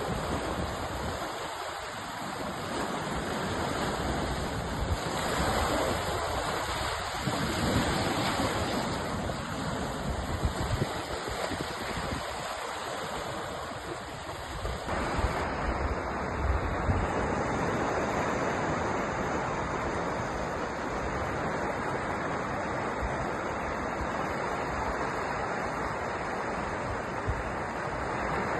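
Sea surf: waves breaking and washing ashore in a continuous rush that swells and ebbs.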